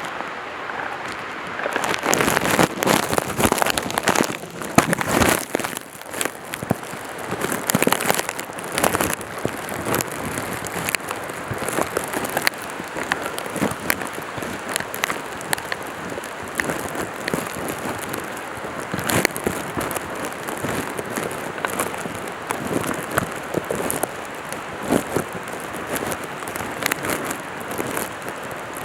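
Footsteps and rustling of a hiker climbing a rocky mountain trail: irregular crunching and crackling of boots on stone and of moving gear and clothing. It is loudest in the first several seconds.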